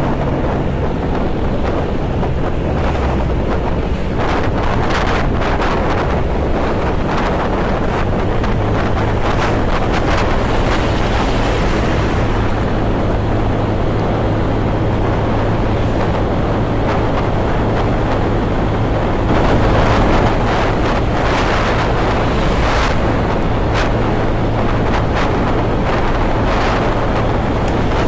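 Wind rushing over a motorcycle rider's microphone while the bike's engine runs under it. From about eight seconds in, a steady engine hum holds at one pitch.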